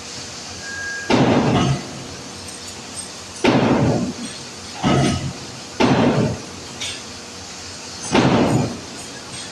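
Five heavy blows on metal, one to two seconds apart, each ringing briefly: hammer strikes on the steel parts of an 800-ton press during disassembly.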